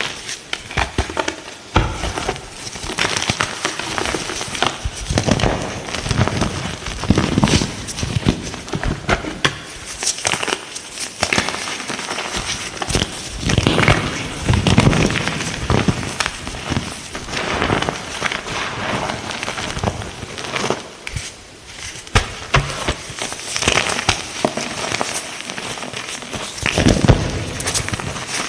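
Light green gym chalk being crushed: dense, crispy crackling and crunching that comes in repeated surges.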